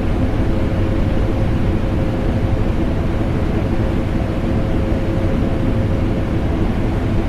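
Vacuum cleaner running steadily together with air-conditioner hum: a constant, unbroken drone, heavy in the low end, with a faint steady whine on top.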